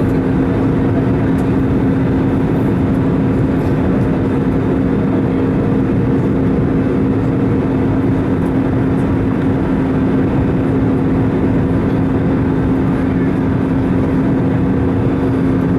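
Steady cabin noise of an Airbus A320 in flight: the drone of the engines and rushing air, with a constant low hum running through it.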